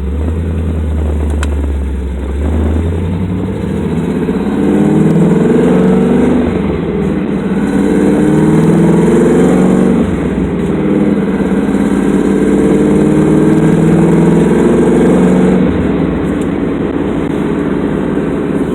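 Car engine with an off-road X pipe and MagnaFlow glass pack mufflers, accelerating. Its exhaust note rises in pitch in about three pulls, dropping back between them as it shifts, then settles to a steadier cruise near the end.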